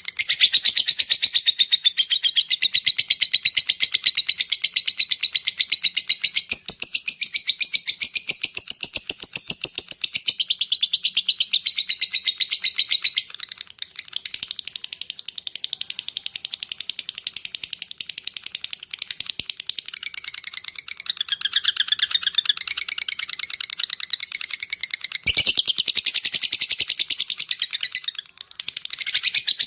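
Lovebird giving its long, rapid chattering call (the 'ngekek'): a fast, unbroken run of shrill notes, many to the second. It gets somewhat quieter about halfway through and pauses briefly near the end.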